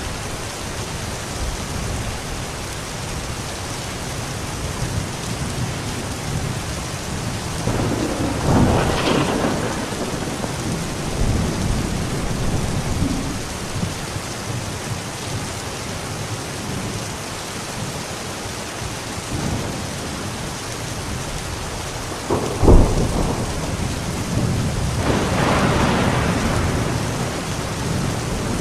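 Steady rain falling, with thunder. A rumble swells about eight seconds in, and a sharp crack comes a few seconds before the end, followed by a longer rumble.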